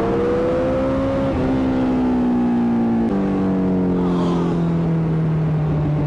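Small motorcycle engine running under throttle: its pitch climbs over the first second or so, drops in two steps about a second and a half and three seconds in, then eases slowly lower.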